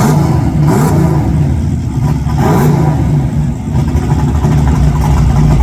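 Truck engine running hard and loud under throttle, with brief rises in revs about half a second in and again about two and a half seconds in.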